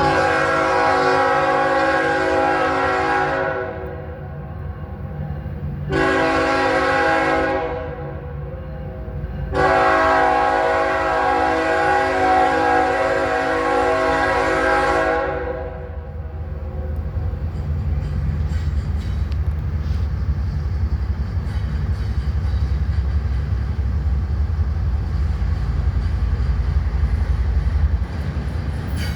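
Norfolk Southern freight train's locomotive horn sounds a long blast, a short one and another long one, then the train rolls on with a steady low rumble.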